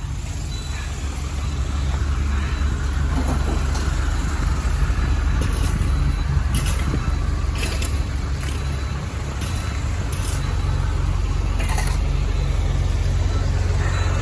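Heavy machine's engine running steadily with a deep rumble, with several short, sharp clanks or hisses scattered through it.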